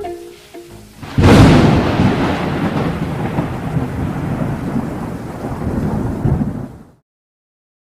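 A sudden thunderclap about a second in, then rolling thunder with heavy rain that cuts off abruptly near the end.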